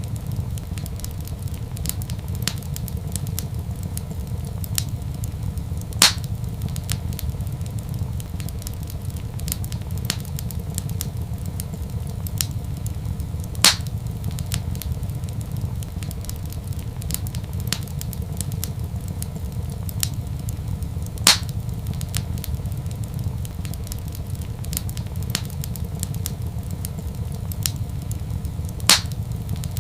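Wood fire crackling in a fireplace: a steady low rumble of flame under many small crackles, with a sharp louder pop about every seven and a half seconds, four in all.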